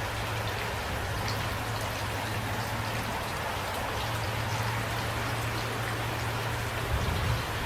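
Steady light rain falling, an even hiss with scattered individual drops ticking, and a steady low hum beneath; a couple of soft low knocks near the end.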